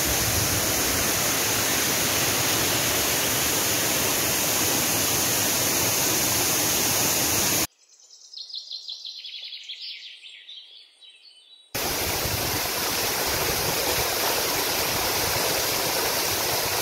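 Waterfall rushing with a steady, dense roar. About eight seconds in it cuts away to a much quieter stretch of about four seconds with rapid high bird chirps, then the waterfall's roar returns.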